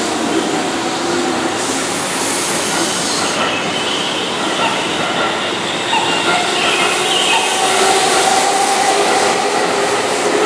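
Keihan electric commuter train running past the platform: a steady loud rumble of steel wheels on rail, with thin wavering squeals from the wheels.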